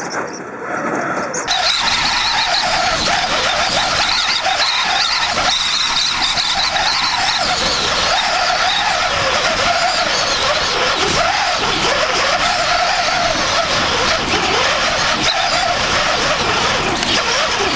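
Storm-force wind blowing hard: a loud, steady rush of noise with wavering whistling tones through it, starting abruptly about a second and a half in.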